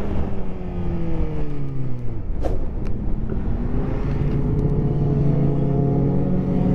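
Sport motorcycle engine on the move, with wind rumbling on the microphone: the revs fall away over the first two seconds, a short sharp click, then the engine pulls again with a steady, slowly rising note.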